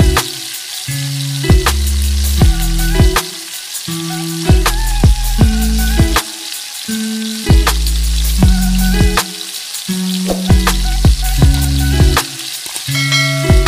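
Meat, onion and garlic sizzling as they sauté in oil in a wok, under background music with a steady beat and deep bass notes.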